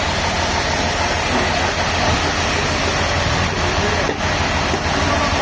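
Heavy machinery running steadily: a constant engine hum under an even wash of mechanical noise, with no breaks or changes.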